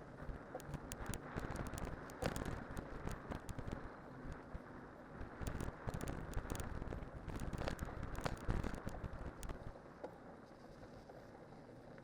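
Cyclocross bike on studded tyres rolling downhill over snow and ice, with crunching, crackling and rattling clicks from the tyres and frame over bumps, and wind noise on the microphone. The clatter eases off near the end.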